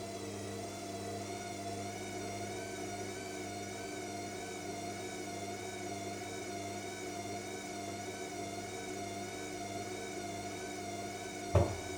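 AEG 7000 Series L7FE7461BI front-loading washing machine in its final spin on a Cottons 60 cycle (1400 rpm maximum): a steady motor and drum whine whose higher tones waver slightly in pitch about once a second. There is a single sharp thump near the end.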